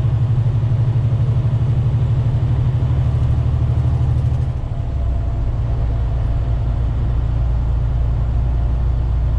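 Semi truck's diesel engine droning steadily inside the cab while cruising, with road hiss. About four and a half seconds in, the engine note drops lower and holds there.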